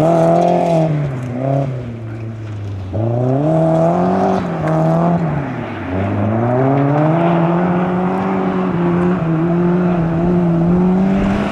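Volvo 900-series saloon rally car's engine revving hard under acceleration. The pitch climbs and drops back sharply with throttle lifts about two and six seconds in, then holds a steady high note for the last few seconds.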